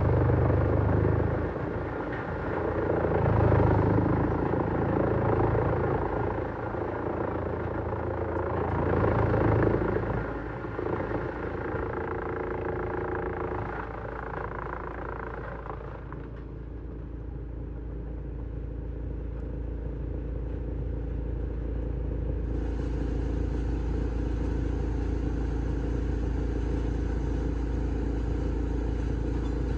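Large wood chipper running. Its sound swells and falls unevenly three times over the first ten seconds, then settles into a steady, even running sound.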